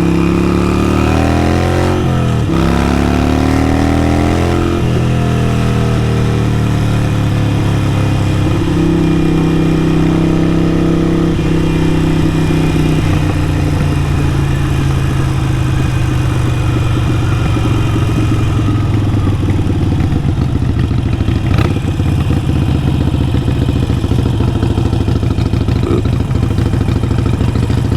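Harley-Davidson Sportster 883 Iron's air-cooled V-twin through a Vance & Hines exhaust, pulling up through the gears: its pitch rises, drops at a shift about two and a half seconds in, and rises again to a second shift near five seconds. It then holds a steady note, slowly eases off and settles into a low rumble.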